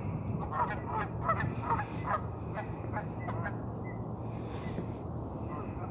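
Geese honking: a quick run of short calls in the first two seconds, then a few sparser ones, over a steady low background rumble.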